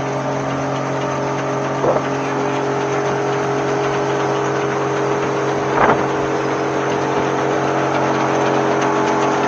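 Large industrial wood chipper running at a steady engine speed, with two short, loud cracks about two seconds in and again near six seconds.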